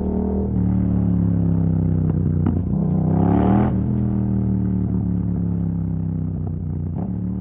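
Yamaha MT-07's 689 cc parallel-twin engine through an open exhaust with the dB killer removed, running under way. The pitch steps down once about half a second in, then rises in a brief sharp rev and drops back about halfway through before running steadily.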